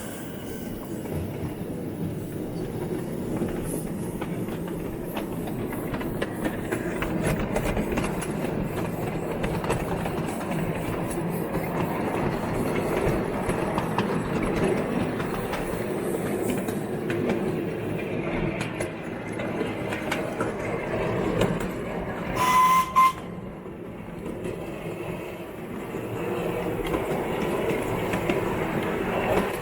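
Small garden-railway train running along its track, its wheels rumbling and clicking over the rail joints. About 23 seconds in there is a brief, loud, high tone.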